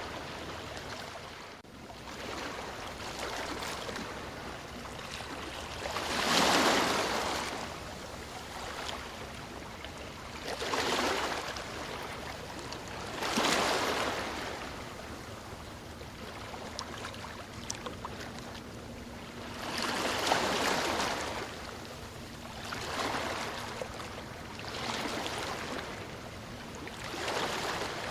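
Ocean waves breaking and washing onto the shore, rising into a louder rush every few seconds over a steady background wash; the biggest surges come about six seconds in and about twenty seconds in.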